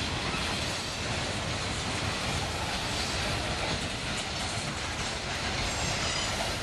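Freight cars, mostly covered hoppers, rolling past at steady speed: steel wheels running on the rails with a continuous rumble and rattle.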